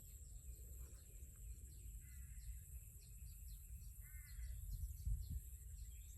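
Faint bird calls in open rice fields: two short harsh calls about two and four seconds in, amid many small chirps. Underneath runs a steady high-pitched drone and a low rumble.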